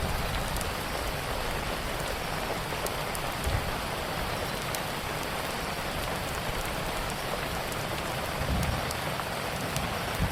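Steady rain falling, an even hiss, with sparse small sharp crackles from a wood fire on top. There are a couple of soft low rumbles partway through.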